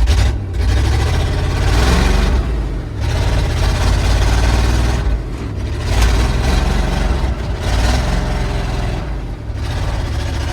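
Truck engine revving in gear under load, swelling and easing in surges every few seconds, as the two-wheel-drive truck strains to move but stays stuck.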